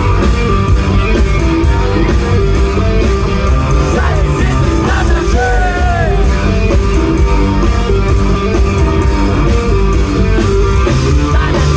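Live rock band playing loudly in concert, the full band with a heavy bass end.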